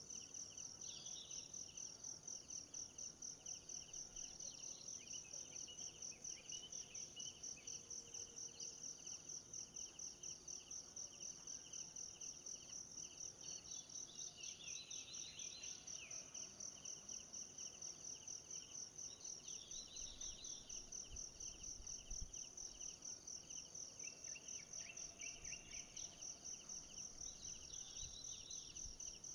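Insect chorus of rapid, even, high-pitched pulsing that runs without a break, with a lower pulsing trill beneath it. Short bird chirps come in now and then, most clearly about halfway through.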